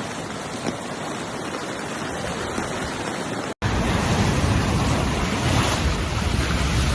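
Storm sea surf and wind, a steady rushing. About three and a half seconds in it cuts abruptly to a louder clip with heavy wind rumble on the microphone over the surf.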